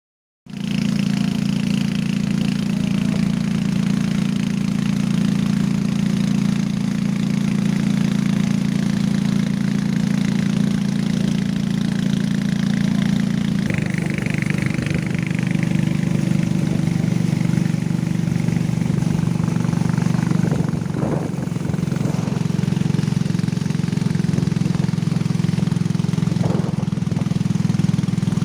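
Motorcycle engine running steadily under way, a low drone whose note shifts about halfway through.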